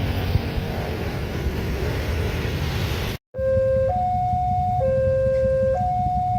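A steady rushing rumble for about three seconds, then a cut. After it, a railway level-crossing warning alarm sounds, alternating between a lower and a higher electronic tone about once a second.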